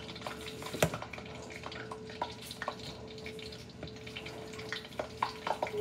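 Hot oil sizzling steadily as breaded chicken nuggets fry, with scattered light clicks of tongs and utensils against bowls and a steady hum underneath.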